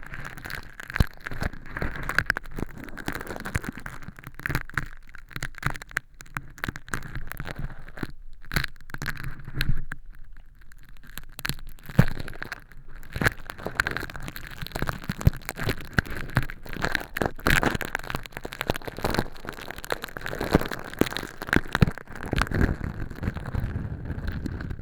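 Tweezers scraping and peeling crispy fake earwax, made of crushed holographic flakes, inside a transparent silicone ear model. The result is a dense, continuous crackling and crinkling with many small sharp clicks.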